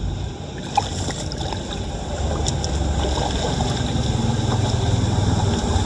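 Floodwater running in a flooded street, with a steady low hum that grows stronger in the second half and a few faint clicks.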